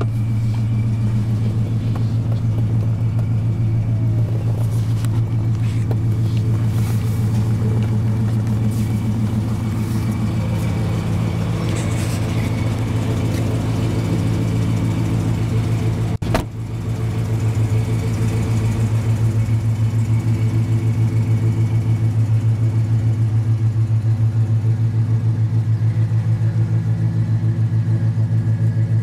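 ProCharger-supercharged 5.7-litre Hemi V8 of a Dodge Challenger R/T idling steadily with a low, even rumble. A sharp click and brief drop come about sixteen seconds in, and after that the idle is louder, heard at the exhaust tips.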